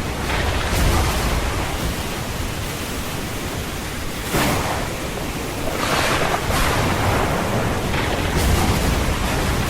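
Steady heavy rain with low rumbles of thunder swelling about a second in and again near the end. The rain surges briefly louder a few times in between.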